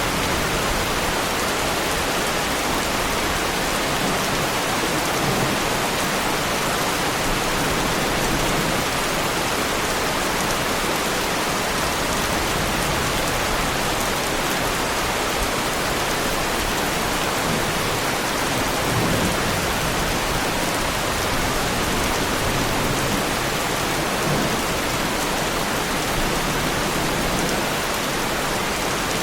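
Heavy rain falling steadily on a Lamborghini Huracán's body, an even, unbroken hiss of many drops.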